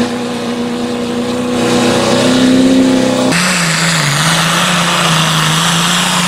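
A pulling vehicle's engine running hard at high, steady revs under load, rising slightly in pitch, then abruptly dropping to a lower steady pitch about three seconds in.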